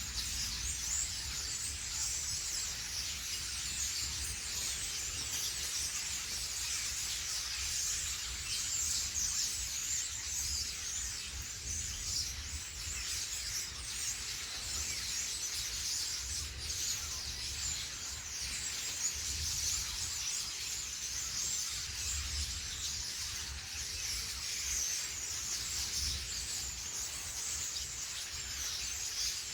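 Many small birds chirping and twittering at once, a dense, continuous chorus of short high calls, over a low, uneven rumble.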